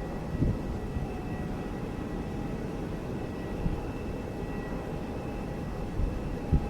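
Airliner jet engines running steadily at a distance: a low rumble with a faint steady high whine. Two brief low thumps, about half a second in and near the end.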